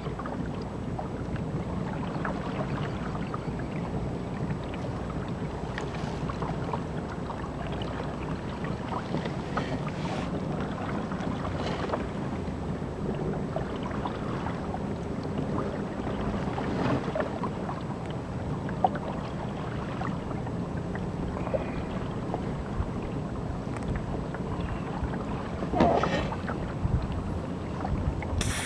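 Electric-powered kayak under way: water splashing and rushing along the hull, with wind on the microphone and a low steady hum. A slightly louder splash comes near the end.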